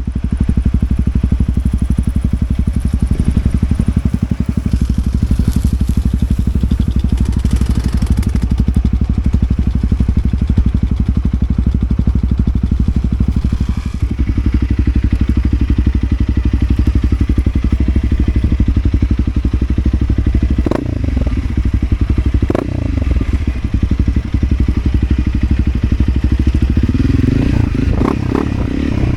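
Motorcycle engine running steadily while under way, with a few sharp knocks and clatters in the second half and the engine note growing fuller near the end.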